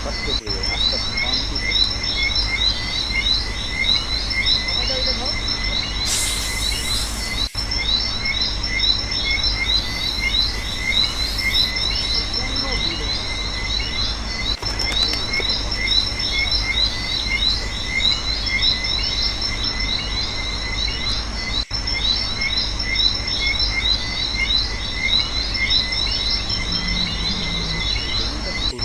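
Dense chorus of crickets and other insects chirping rapidly and without pause, over a steady low hum.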